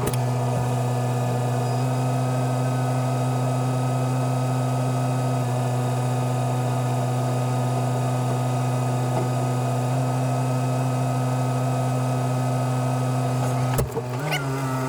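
Heavy diesel engine running at a steady speed, a constant low drone, with a brief change in its note near the end.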